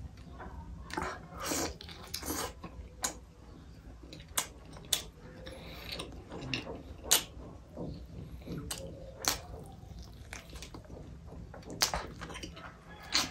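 A person chewing and biting chicken pieces with the mouth open, with sharp mouth clicks and smacks at irregular intervals, about every second or two.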